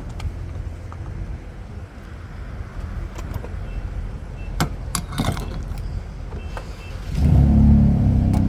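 Car engine and road rumble running low and steady, with a few sharp clicks; about seven seconds in, an engine note comes in much louder.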